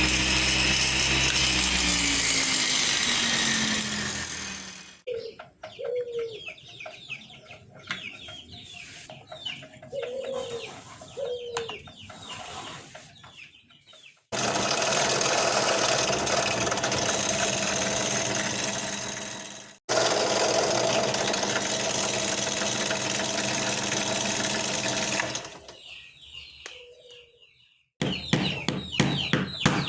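Homemade table saw's motor winding down, falling in pitch, followed by chickens clucking and small birds chirping. The saw then runs steadily for two long stretches that start and stop abruptly. Near the end comes a fast run of sharp clicks.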